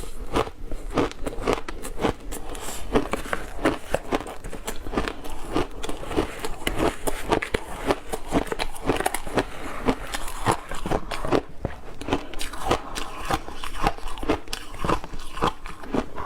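A person crunching ice between the teeth, a steady run of sharp crunches several times a second.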